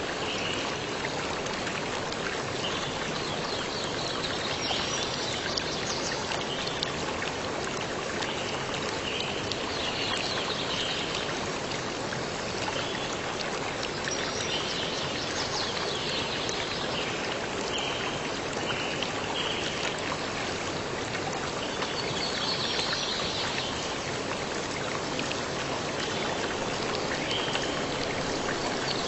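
Stream water running steadily, an even rushing wash, with short higher-pitched sounds coming and going over it every few seconds.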